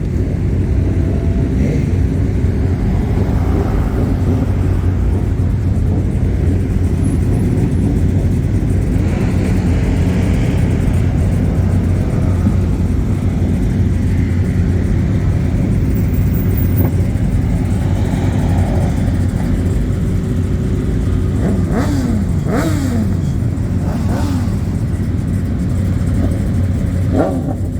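Car engine running with a steady, deep low rumble; a few times near the end the pitch drops quickly, as revs fall back.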